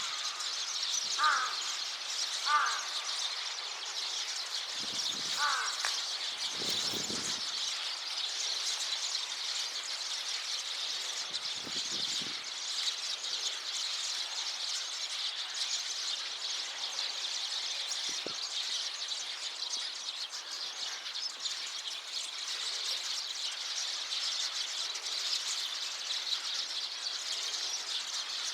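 A flock of Eurasian tree sparrows chirping together in a dense, continuous chorus. A few louder, lower-pitched calls stand out in the first six seconds.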